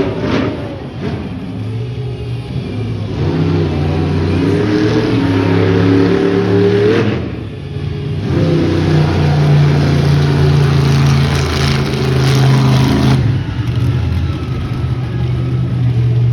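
Monster truck engine revving: the pitch climbs for a few seconds, drops away briefly about halfway through, then runs on at steady high revs.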